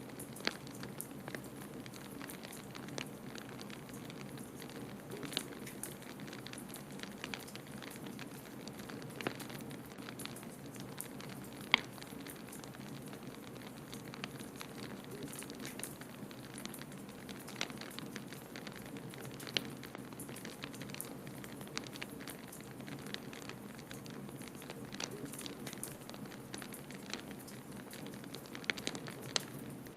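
Wood fire in a fireplace crackling, with irregular sharp pops (one louder pop about twelve seconds in) over a steady low rumble.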